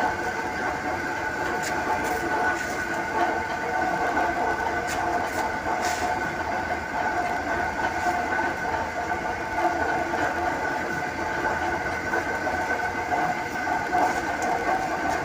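Lathe running steadily while a chaser tool cuts the grooves into a CTC roller: a constant machine whine made of several steady tones over a running mechanical noise.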